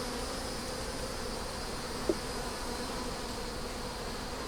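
Honey bees buzzing steadily around an open hive, with a short, sharper blip about two seconds in.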